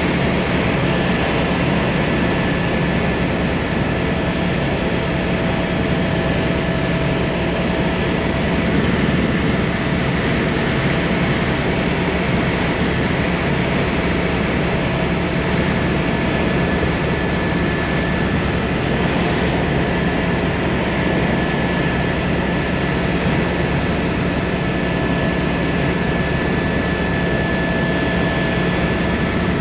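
Helicopter running in flight, heard from inside the cabin: a steady, loud drone of rotor and turbine with a constant high whine over it.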